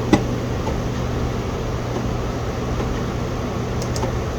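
Steady room hum and hiss with a constant low drone, with one sharp click just after the start and a couple of faint ticks near the end.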